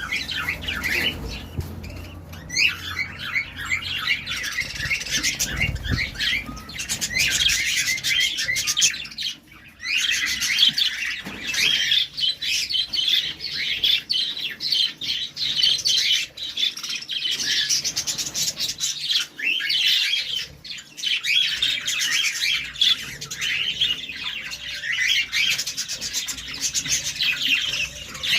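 Flock of budgerigars chirping and chattering in many overlapping calls, with a brief lull about nine seconds in.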